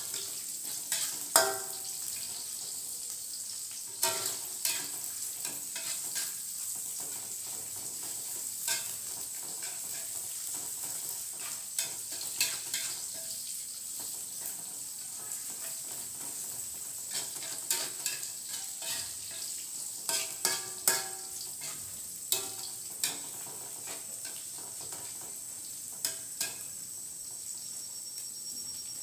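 Bamboo shoots with garlic and shallots frying in a wok over a gas flame: a steady sizzle, with the spatula scraping and clicking against the wok at irregular intervals as the food is stirred.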